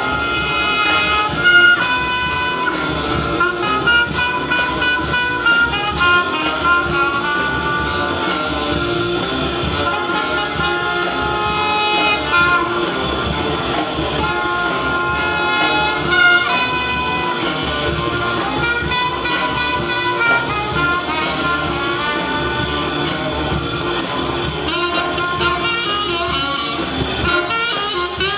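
Live jazz band playing: trumpet, trombone and saxophones carrying the tune over piano, bass and drums.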